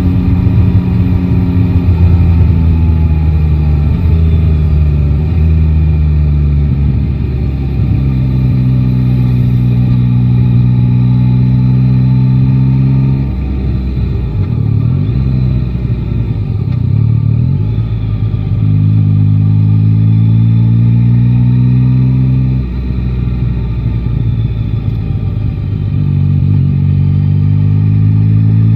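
Yamaha Tracer 9 GT's three-cylinder engine running under way, loud and close. It pulls with a steady note for stretches, and the note drops and changes several times as the throttle eases off and picks up again.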